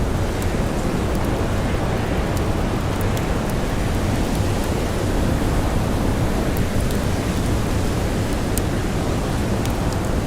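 Steady, loud storm wind with blowing snow, strongest in the low end, with scattered sharp crackles of a campfire throughout.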